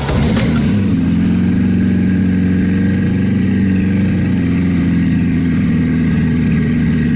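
A sports car's engine running steadily at a constant speed, with no revving.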